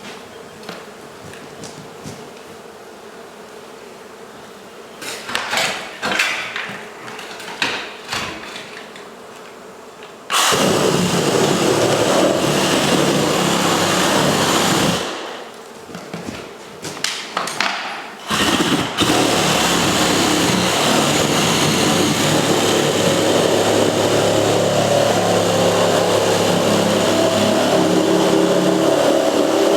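Scattered knocks and handling clicks, then a loud steady motor that starts suddenly about ten seconds in. It stops for a few seconds and starts again, running steadily.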